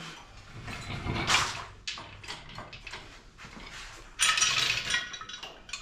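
Garage handling noises: scattered metal knocks and shuffling, with a louder harsh metallic rattle or scrape lasting about a second, about four seconds in.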